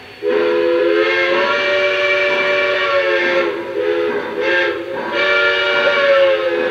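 Lionel Lionmaster Pennsy T1 model locomotive's electronic chord steam whistle blowing a long, loud blast that starts a moment in, its pitch bending slightly and easing off briefly twice.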